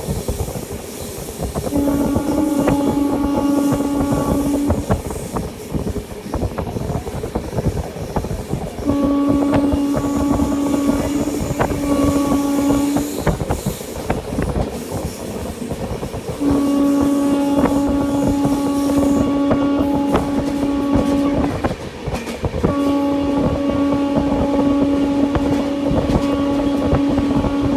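Train horn sounding in several long blasts, the longest about five seconds each, over the steady rumble and clatter of a passenger train's wheels on the track at speed.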